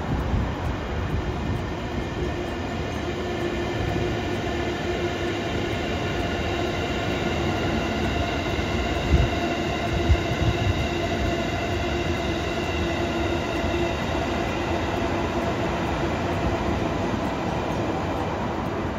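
Electric passenger train passing close by on an elevated line, with a steady rumble of wheels on rail and a steady whine over it. A few heavier clacks from the wheels come about halfway through.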